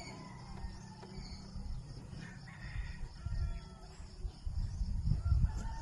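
A rooster crowing, the call rising and falling for about a second around the middle, over a low rumble that grows louder near the end.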